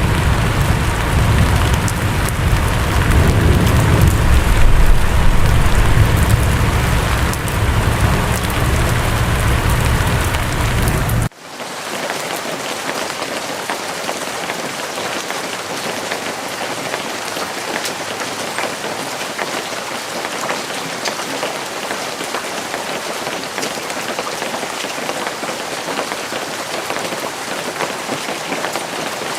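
Steady rain falling on a surface, with a deep rumble underneath for the first eleven seconds or so. The sound cuts off abruptly and gives way to lighter, even rain with many small drop hits.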